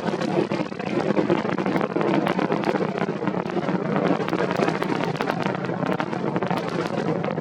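Crackling roar of a Falcon 9 rocket's nine first-stage Merlin engines in flight, a steady rumble full of sharp pops and crackles.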